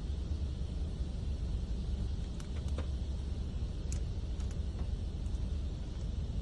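Steady low rumble and hiss of an automatic car wash, heard from inside the car, with a few faint ticks.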